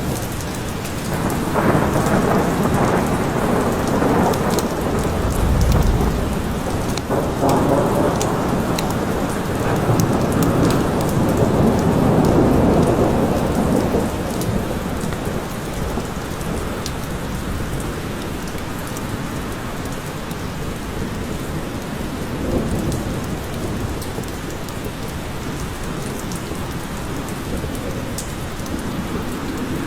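Steady rain with a long, rolling rumble of thunder that swells about a second in and dies away about halfway, leaving the rain alone.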